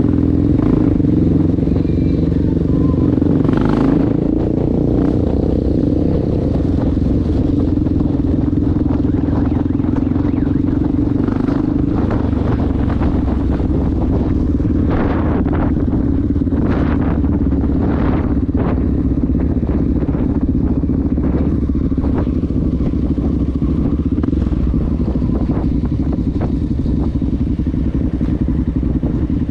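Honda XR650L dual-sport's single-cylinder four-stroke engine running at a steady pace while riding, with scattered short clicks and clatter.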